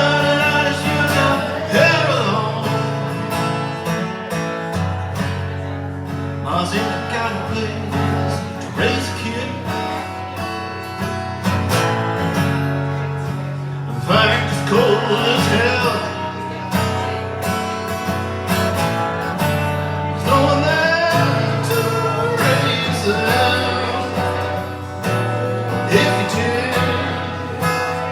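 Live music: a singer performing a song to acoustic guitar accompaniment over steady held low notes.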